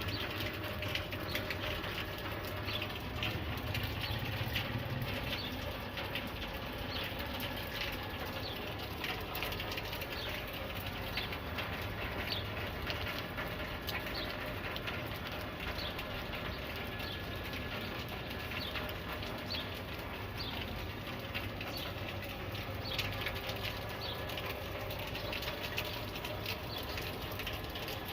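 Birds chirping in many short, separate calls over a steady low rumble.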